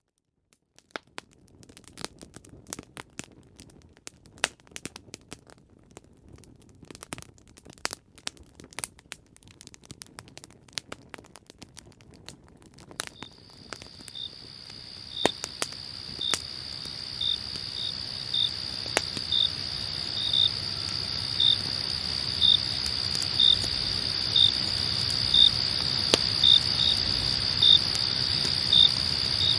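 Campfire crackling and popping with sharp irregular snaps. About halfway through, crickets start up: a steady high trill with a louder chirp about every second. A low fire rumble swells gradually underneath.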